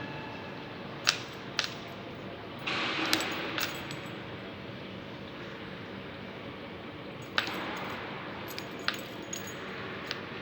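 Scattered sharp clinks and knocks of small hard objects, about eight at uneven intervals, with a short scraping rustle about three seconds in, over a steady background hum.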